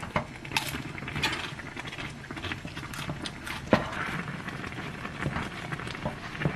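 Irregular light clicks, knocks and rustling of food containers and tableware being handled, with one sharper knock about three and a half seconds in.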